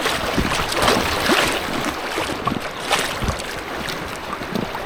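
Rushing white water of a small river rapid around an inflatable kayak, with louder splashes about a second in and again around three seconds.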